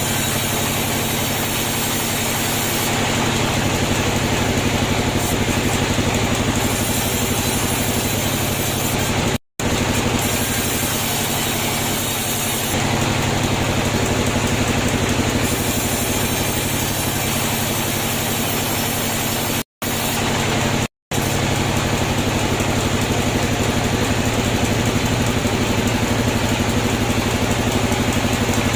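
Sawmill machinery running steadily with a constant engine-like hum, cutting out abruptly three times for a split second.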